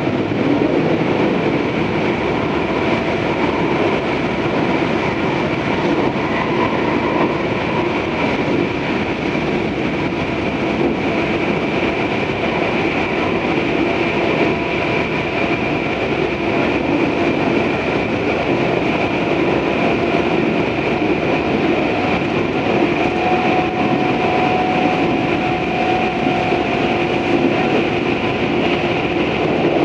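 Tobu 634 series electric train running at a steady speed between stations, heard inside the car: a continuous rumble of wheels and track with a steady high hum.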